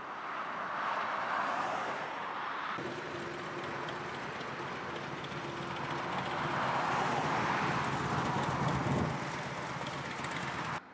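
Motorcycles running on the road, engine sound mixed with rushing wind noise, swelling to its loudest about nine seconds in and cutting off abruptly near the end.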